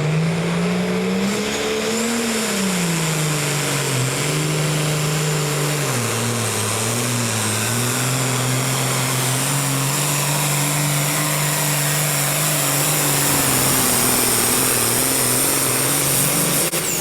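Engine of a truck- or tractor-pulling vehicle running hard under load down the track. The pitch climbs over the first two seconds, falls back, dips twice, then holds fairly steady.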